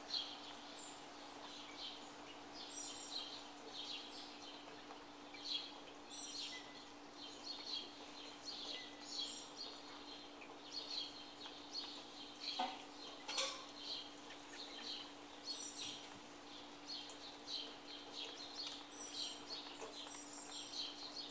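Songbirds chirping and calling on and off, short bright notes and whistles repeating, over a faint steady hum.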